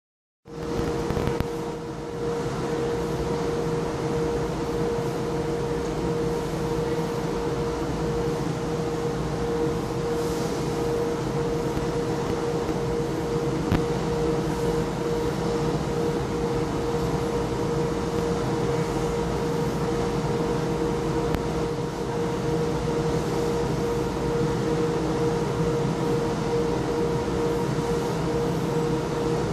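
Steady drone of industrial machinery running continuously: a constant mid-pitched hum over a low, noisy rumble.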